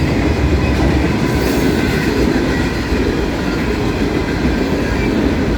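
Cars of a passing Norfolk Southern mixed freight train rolling by close at hand, steel wheels running over the rails in a steady, loud noise.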